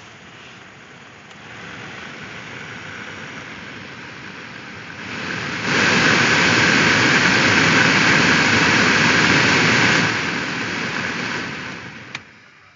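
2008 Toyota Tacoma's cabin HVAC blower fan blowing air. It steps up in speed twice, about one and a half seconds in and again about five and a half seconds in, then drops back and winds down near the end, with a single sharp click just before it stops. The blower motor has a worn bushing assembly, which the owner blames for its clicking noise.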